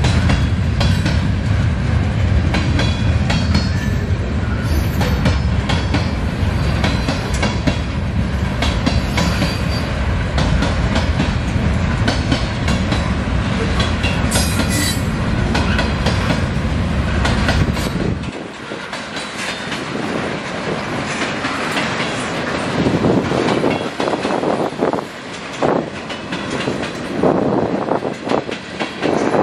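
Freight cars of a Canadian National mixed freight train rolling past: flatcars loaded with steel coils, then covered hoppers and gondolas, with a steady wheel-on-rail rumble and the clickety-clack of wheels over the rails. About two-thirds of the way through, the deep rumble falls away, leaving a lighter, uneven clatter.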